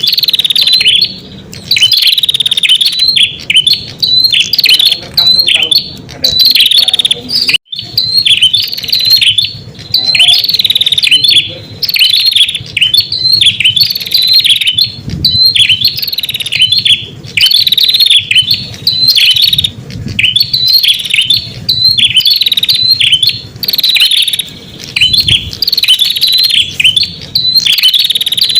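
Red-headed prenjak calling in a lure recording: loud, sharp chirps repeated over and over without a break, with a brief cut in the sound about a third of the way through.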